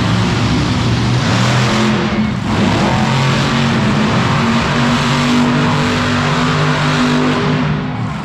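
Monster truck engine running loud and revving, its pitch shifting up and down, with a brief drop about two seconds in.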